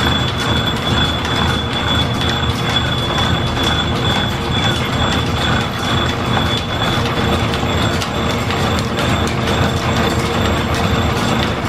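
Belt-driven machine-shop machinery running steadily under line-shaft power, with a constant high-pitched whine over a mechanical rumble and fine rapid clicking.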